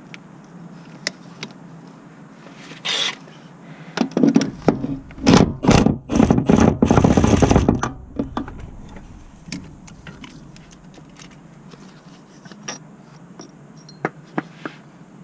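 Repair work on a car: scattered sharp metallic clicks and clanks, with a run of loud short mechanical bursts from about four to eight seconds in.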